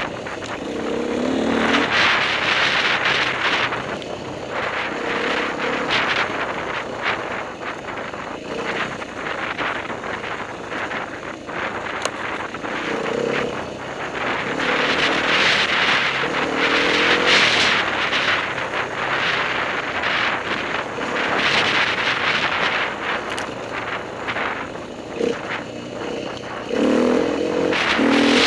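Enduro dirt bike engine revving in short bursts while riding a trail, over a rushing noise of wind on the microphone that swells and fades.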